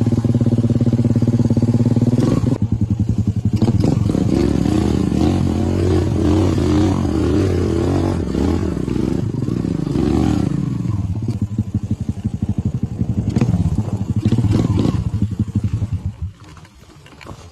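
Motorcycle engine running steadily, then pulsing unevenly with some clatter as it is ridden, before its sound drops away sharply near the end.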